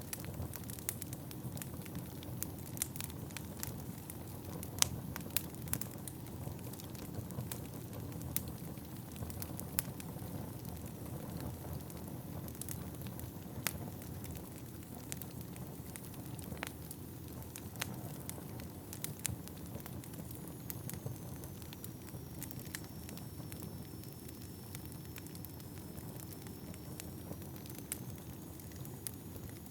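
Wood fire burning in a fireplace: a steady low rush of flame under irregular sharp crackles and pops from the burning logs, more frequent in the first half.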